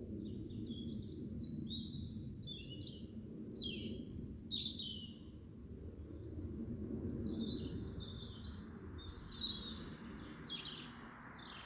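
A songbird singing in quick, varied phrases of short chirps and trills, with brief pauses between phrases, over a steady low rumble.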